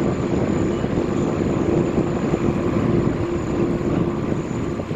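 Airbus A380 jet engines running loud and steady: a dense rumble with a constant low hum and a faint high whine over it.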